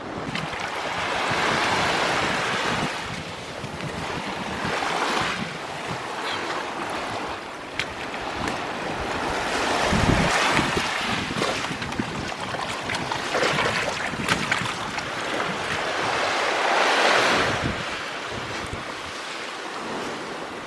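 Small waves washing onto a beach, each one swelling and fading every few seconds, with wind buffeting the microphone.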